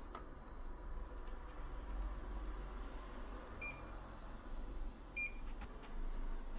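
Two short, high electronic beeps about a second and a half apart, like a kitchen appliance's keypad or control panel, over a steady low hum.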